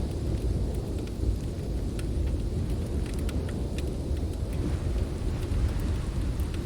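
Storm wind blowing as a steady low rumble, with scattered sharp crackles and pops from a wood fire.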